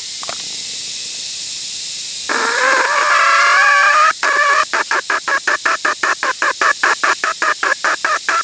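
A chicken calls loudly, starting a couple of seconds in with one drawn-out wavering squawk. It then breaks into a rapid run of short clucking calls, about five a second.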